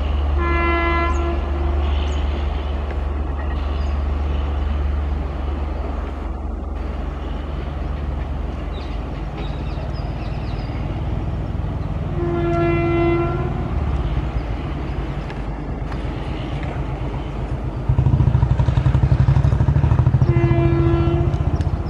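Low rumble of a departing passenger train, with three short, single-pitched train horn blasts: near the start, about halfway through, and near the end. A louder, rapidly pulsing rumble sets in a few seconds before the end.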